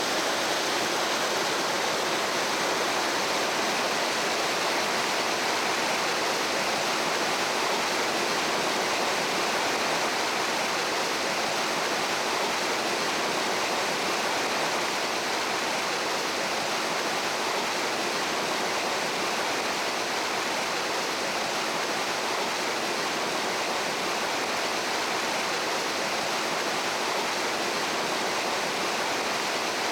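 Water of a mountain stream rushing over rocks, a steady, unbroken rush.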